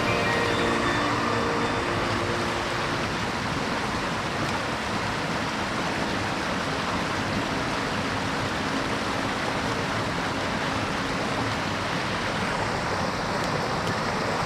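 Water of a small mountain stream rushing steadily over rocks, with background music fading out just after the start.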